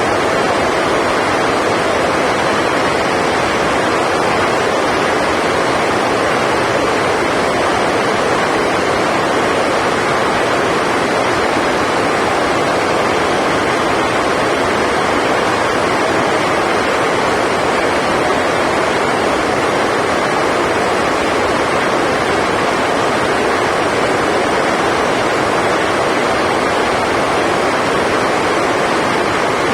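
Heavy rain on the hall roof: a loud, steady rushing hiss with no break.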